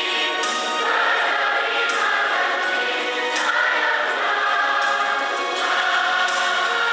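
Church choir of congregation members singing a hymn together, holding sustained notes that change roughly every second or so.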